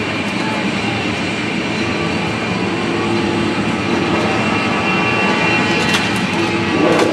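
Big engine running loud and steady, with two sharp cracks about six and seven seconds in.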